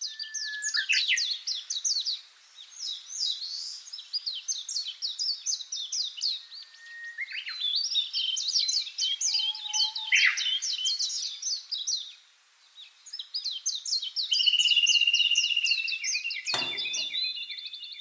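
A songbird singing in fast, high chirping phrases, three runs with short pauses, then a steady trill. Near the end a sharp click with a short ringing tone.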